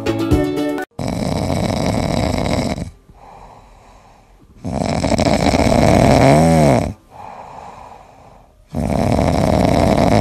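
A cat snoring in its sleep: three long snores a few seconds apart, with quieter breaths between them.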